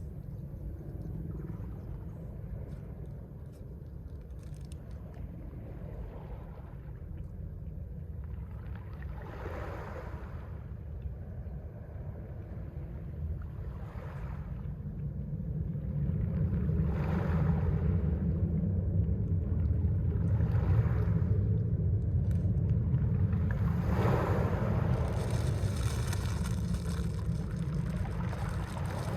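Mediterranean sea waves breaking and washing on the shore, a wave every three to four seconds over a steady low rumble of surf. The waves grow louder about halfway through.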